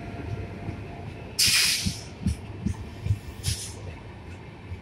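Passenger coaches of an express train running through at full speed: a steady rumble, with the wheels knocking over rail joints about two or three times a second. Two loud bursts of hiss come about one and a half and three and a half seconds in.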